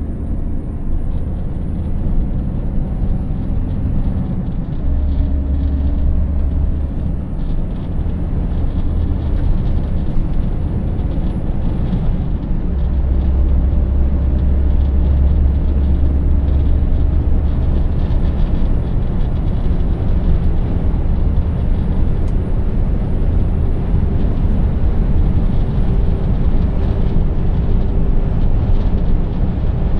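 Scania 590S 16-litre V8 truck engine running under way, with steady tyre and road noise; its deep note shifts a few times, and a faint high whine climbs slowly and drops off three times.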